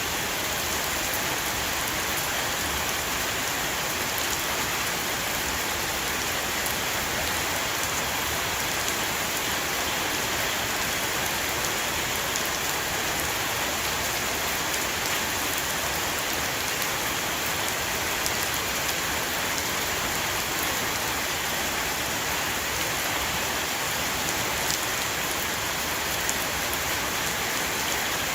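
Steady heavy rain shower falling on a roof, a dense even patter with scattered sharper drop ticks.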